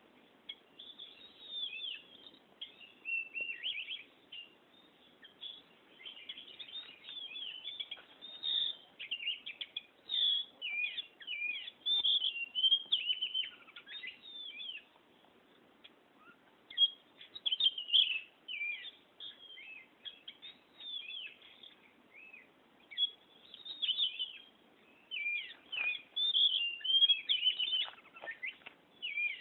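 Oriental magpie-robin in full song: a long run of rapid, varied whistled and chattering phrases, broken by a pause of about two seconds near the middle.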